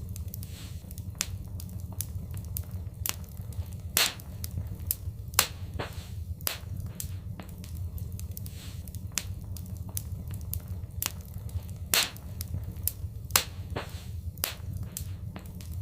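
Fireplace fire crackling, with frequent sharp pops over a steady low rumble of the flames; a handful of pops stand out louder than the rest.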